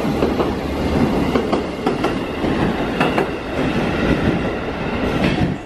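A train running over the rails: a steady rumble of wheels with a few sharp clacks over rail joints. It cuts off suddenly near the end.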